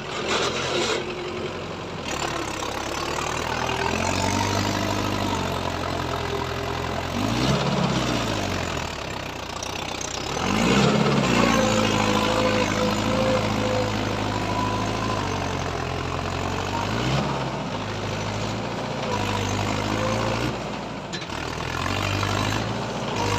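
Tractor diesel engine running steadily, its pitch sweeping down and back up three times as the engine speed changes, loudest just after the second change.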